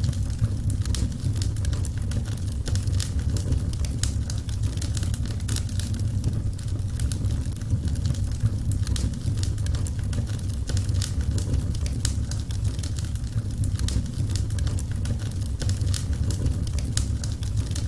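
Burning wood fire crackling, with frequent irregular sharp pops and snaps over a steady low rumble.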